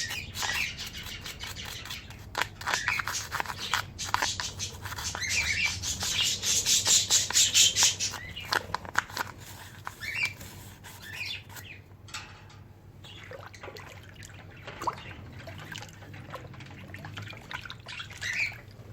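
Toothbrush scrubbing a bird water drinker in quick back-and-forth strokes, loosening dirt from its edges after a soak in hot water and vinegar; the strokes come in bursts, loudest midway and fainter in the second half. Small birds chirp now and then.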